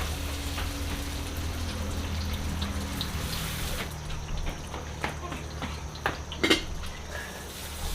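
Kitchen cooking sounds: a steady rushing hiss of running water or sizzling food that thins out about halfway through, over a low hum, with scattered clicks of utensils and a sharp clatter about six and a half seconds in.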